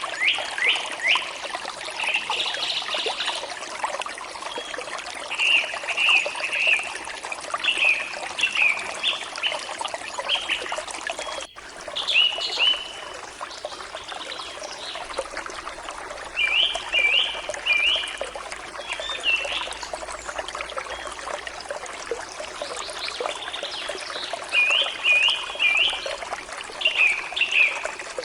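Forest stream flowing and trickling steadily, with birds singing over it in repeated short phrases of quick high notes. The sound cuts out for an instant about a third of the way through.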